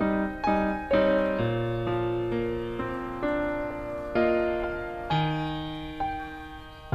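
Slow, gentle piano background music: single notes struck about every half second to a second, each ringing and fading, over a few held low bass notes.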